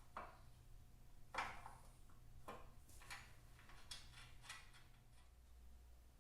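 Faint, scattered clicks and knocks of hand tools and parts being handled during motorcycle mudguard fitting, about six over a few seconds, over a low steady hum.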